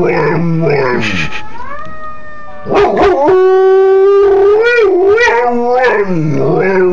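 Dog howling in a wavering, siren-like way, imitating an ambulance siren. The pitch rises and falls, with a long held note in the middle.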